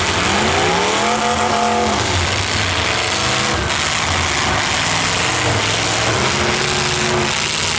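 Demolition derby cars' engines revving hard over a dense din of engines and noise, one engine climbing steeply in pitch over the first two seconds and then holding.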